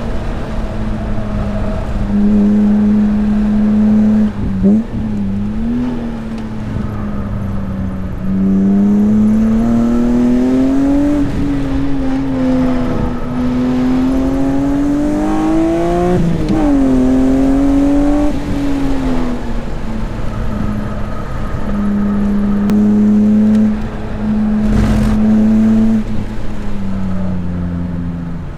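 BMW S54 3.2-litre straight-six in an E36 M3, heard from inside the cabin under track driving. The engine note climbs slowly in pitch under acceleration, holds steady in stretches, and drops sharply at shifts or lifts, several times over. There is a single thump about 25 seconds in.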